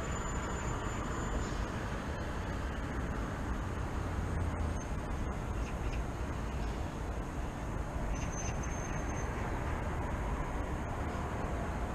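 City ambience: a steady rumble of road traffic, with a thin high whistle-like tone at the start and another about eight seconds in.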